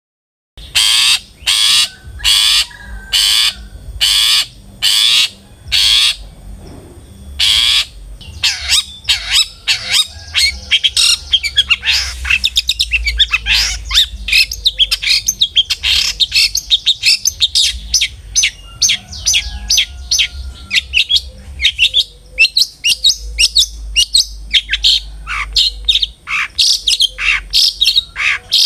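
Long-tailed shrike (cendet) calling and singing: first a run of separate harsh calls about twice a second, then a fast, dense chattering song of rapid, varied notes.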